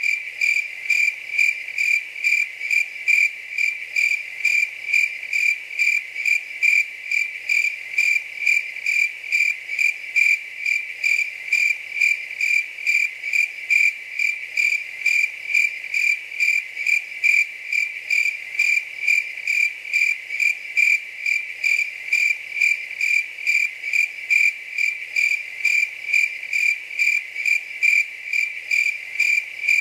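A cricket chirping steadily, a high, even chirp repeated about twice a second without a break.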